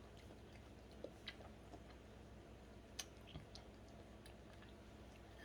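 Near silence with a few faint, sharp mouth clicks from someone chewing food quietly, the loudest about three seconds in.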